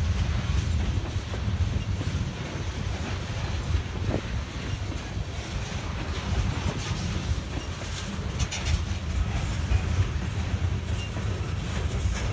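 Loaded oil tank cars of a slow freight train rolling past: a steady low rumble of steel wheels on rail, with a few sharper clicks about two-thirds of the way through.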